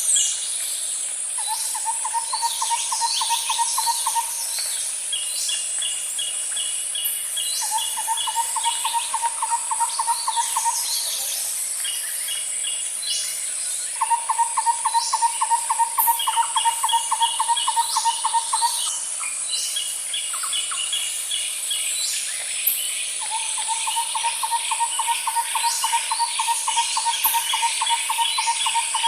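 Night-time insect and bird chorus: a steady high insect drone, with a low, evenly pulsed trill that comes in bouts of two to five seconds with gaps between. Faster, higher trills and short falling chirps are repeated over the top.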